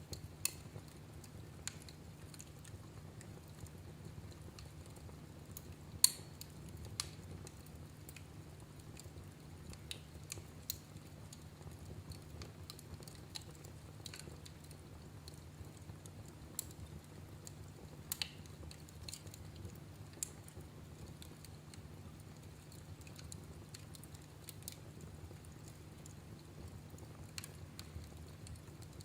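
Wood fire in a fireplace crackling: scattered sharp pops and snaps over a low steady rumble, with the loudest pop about six seconds in.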